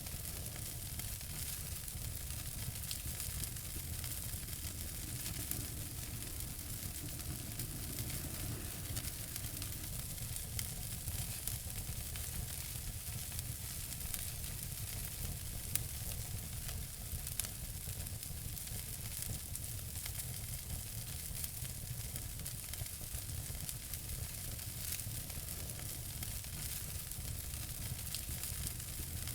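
Wood fire crackling in a fireplace: a steady hiss with many small snaps and pops, and a couple of louder snaps about halfway through.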